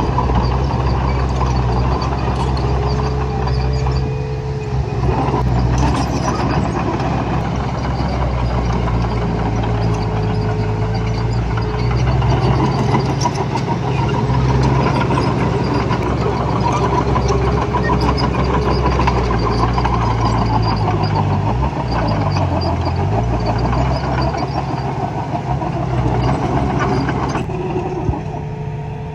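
Earthmoving machinery engine running steadily. Its pitch dips briefly and climbs back a little past the middle.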